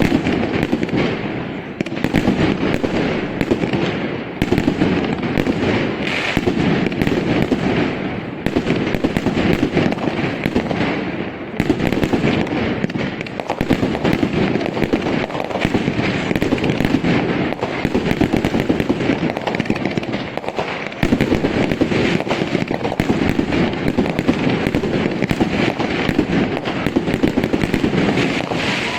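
Professional fireworks display: aerial shells and volleys bursting in rapid, near-continuous succession, mixed with crackling effects. The barrage thins briefly a few times before building again.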